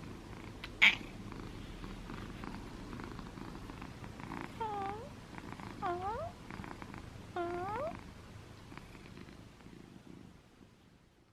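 Pet cat purring steadily up close, with a sharp click about a second in. The cat gives three short calls a little over a second apart, each dipping and then rising in pitch, and the sound fades out near the end.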